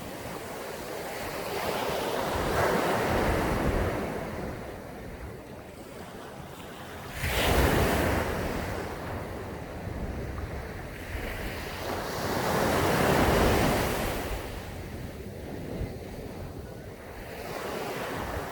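Sea waves breaking on a sandy beach, the surf swelling and fading. The loudest wave crashes suddenly about seven seconds in, and wind buffets the microphone.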